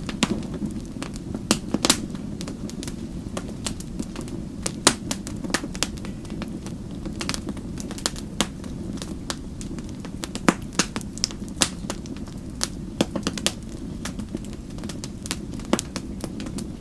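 Wood fire burning with a steady low rush of flames and frequent irregular sharp crackles and pops, a few louder snaps scattered through.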